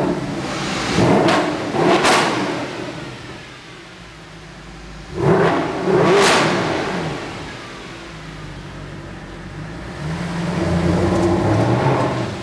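Sports car engines revved hard in a road tunnel, the sound echoing off the walls. Three loud surges come as cars pass: one about a second in, a sudden loud one about five seconds in, and a longer one near the end.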